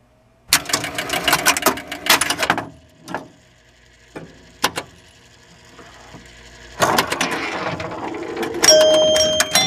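Rapid mechanical clicking and rattling in two long runs, one starting about half a second in and one about seven seconds in, with a few single clicks between. Near the end, steady ringing tones join the clicking.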